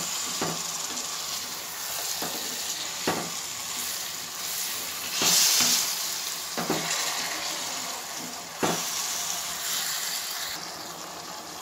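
Shredded cabbage and potatoes sizzling in oil in a kadai while a wooden spatula stirs them, knocking against the pan now and then. The sizzle swells louder about five seconds in.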